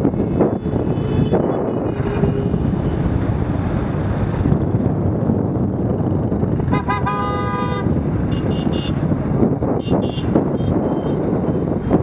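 Riding noise on a Honda XR250 dirt bike: wind rush and engine rumble, with a vehicle horn blowing for about a second midway, followed by several short, higher toots.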